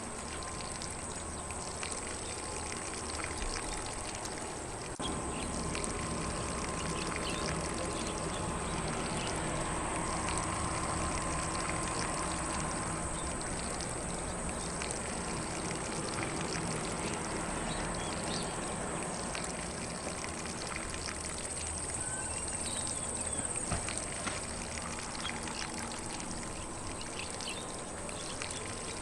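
Lawn sprinkler spraying water over grass: a steady, even wash of spray and pattering droplets.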